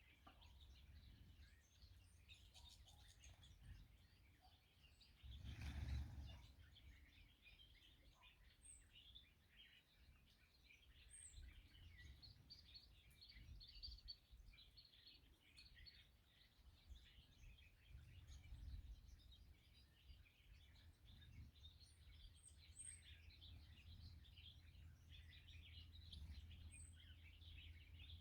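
Faint chorus of many small songbirds chirping and twittering, with a few higher thin notes now and then, over a low outdoor rumble. About six seconds in, a brief rush of noise, like a gust on the microphone, rises over the birds for about a second.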